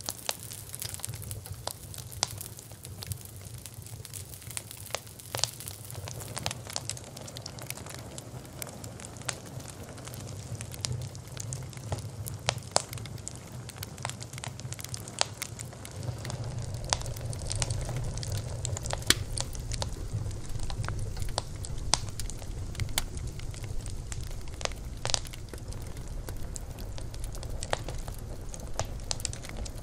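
Wood fire burning, with irregular sharp crackles and pops over a low steady rumble of flames that grows louder about halfway through.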